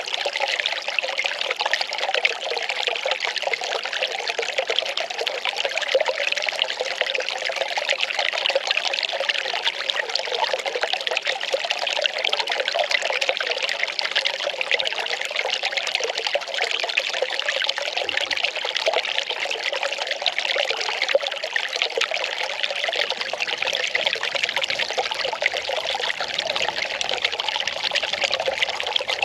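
Well water pouring and trickling in a steady, unbroken stream.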